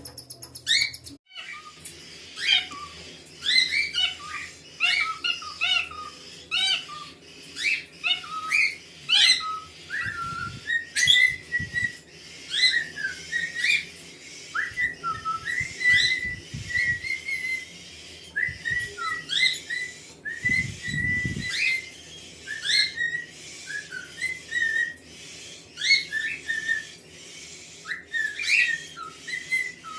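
Cockatiels chirping and whistling in a steady stream of short, rising and falling calls. A few brief low rumbles come in about a third and two thirds of the way through.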